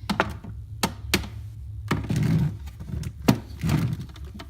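Plastic food storage containers being handled and set down on a fridge shelf: a series of sharp clicks and knocks, with a few duller thunks in between.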